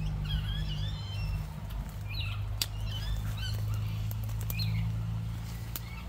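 Birds giving short chirping calls in scattered runs, with a few sharp clicks, over a steady low hum.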